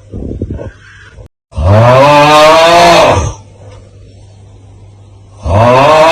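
The looped 'Aauuggh' meme sound: a man's loud, drawn-out 'aauuggh' yell whose pitch rises and then falls, heard whole once for about two seconds and starting again near the end. A short, quieter sound and a brief dropout to silence come before the first yell.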